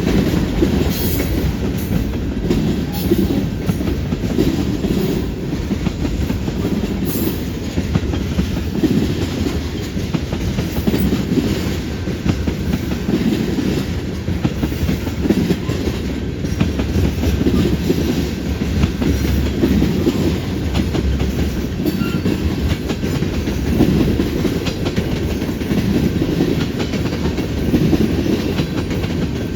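CN freight train cars rolling past. Their wheels clack in repeated groups over rail joints and the junction switch, over a steady low rumble.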